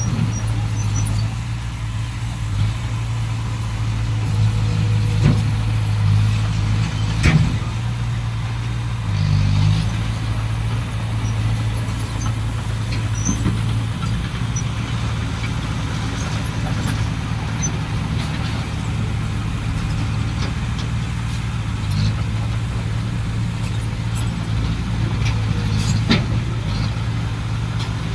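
Heavy diesel engine of earthmoving machinery running steadily at a low, even pitch, with a few sharp knocks about 7 seconds in and again near the end.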